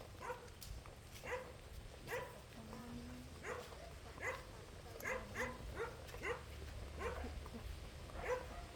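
A dog barking repeatedly in short, separate barks, about one to two a second, at an uneven pace.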